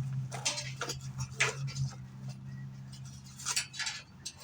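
Scattered clicks, knocks and scrapes of a motorcycle shipping crate being taken apart by hand. A steady low hum runs underneath and fades about halfway through.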